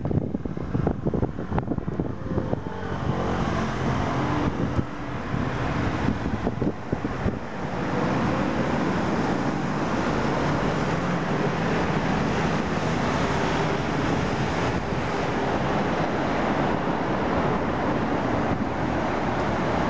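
Honda CB250T motorcycle with a 400cc parallel-twin engine running. It goes unevenly for the first few seconds, then runs steadier and louder from about eight seconds in.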